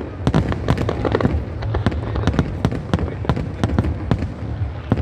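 Aerial fireworks bursting in a rapid, irregular string of sharp bangs and crackles, several a second, over a steady low rumble.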